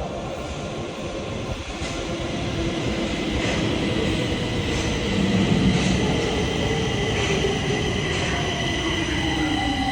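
Stockholm metro C20 train running through the station with rail rumble. Its motor whine slowly falls in pitch over the second half, as it does when a train slows, and steady high whistling tones sound above it.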